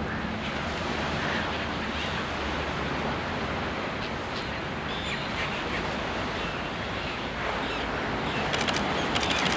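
Steady surf and wind noise at the shoreline, with a few faint high bird calls. A quick run of sharp clicks near the end.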